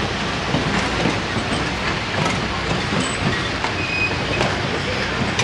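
Passenger cars of the Niles Canyon Railway excursion train rolling past, a steady rumble of wheels on rail with irregular clicks over the rail joints and a couple of brief high squeaks.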